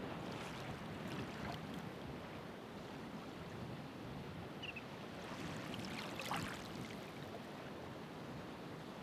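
Ocean waves on the shore: a steady rushing wash of surf, with splashing and fizz of breaking water near the start and again around six seconds in.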